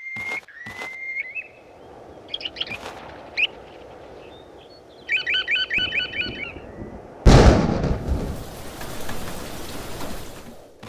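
Birds chirping: a run of short, evenly spaced calls, then scattered chirps and a fast trill. About seven seconds in, a sudden loud thunderclap breaks in, followed by rumbling and steady rain.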